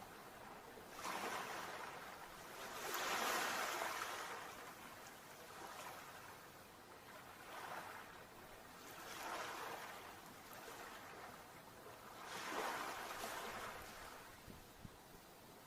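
Sea waves washing onto the shore, with surges of surf swelling and fading every few seconds. The biggest come about three seconds in and near the end.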